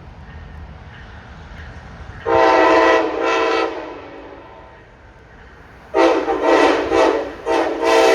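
Train air horn sounding a chord in several blasts: a long blast about two seconds in, quickly followed by a short one. About six seconds in a second group of blasts begins, its last one held past the end, over a low rumble.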